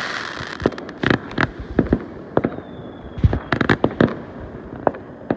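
Fireworks going off: an irregular string of sharp bangs and pops, with a faint falling whistle partway through.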